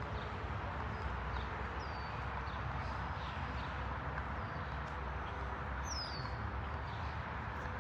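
A steady low rumble, with a bird chirping twice: a short downward-sliding whistle about two seconds in and another near six seconds.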